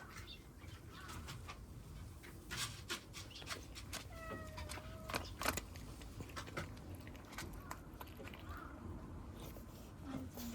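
A cat meows once, a short call about four seconds in, among scattered faint clicks and taps.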